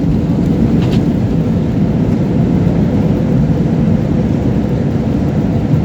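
Airliner cabin noise: a steady, loud low rumble of the jet engines and airflow heard from inside the passenger cabin.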